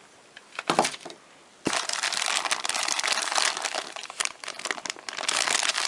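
Plastic packaging crinkling as a kit item is unwrapped: a short rustle, then from under two seconds in a loud, continuous crackling crinkle.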